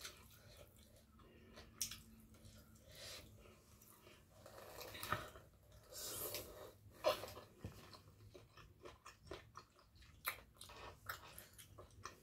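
A person eating green papaya salad and sticky rice by hand: chewing with irregular wet mouth smacks and a few crunches, the sharpest about seven seconds in.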